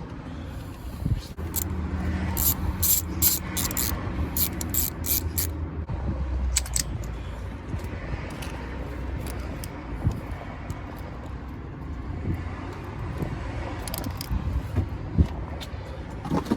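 Scattered sharp metallic clicks and light knocks from hands working a distributor into place on the engine, over a steady low rumble of a vehicle running nearby.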